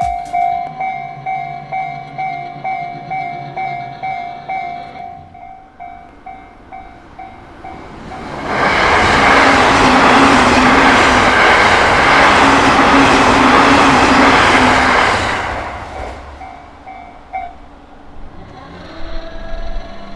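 Japanese level-crossing warning bell ringing in a steady two-tone ding, about twice a second, as an electric train on the JR Chuo Main Line passes. The loud rumble of the wheels on the rails swells about eight seconds in and lasts some seven seconds, drowning the bell. The bell stops a couple of seconds after the train has gone.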